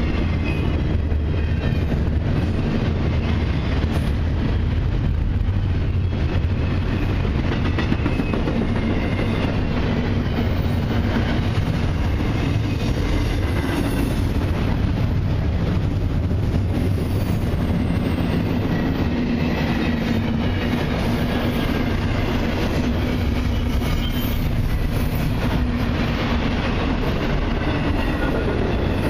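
Freight cars of a long intermodal and autorack train rolling steadily past: a continuous rumble with wheels clattering over the rail, and faint squeal from the wheels.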